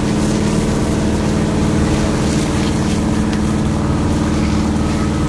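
Fire truck's diesel engine running at a steady, even speed.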